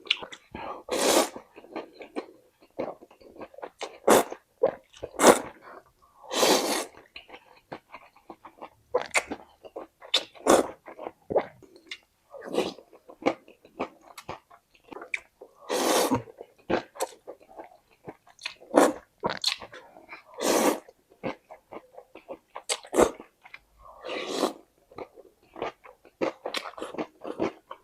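Close-miked eating: crunching and chewing of crispy fried intestine and spicy noodles, with sharp crunches every second or so and several louder half-second bursts.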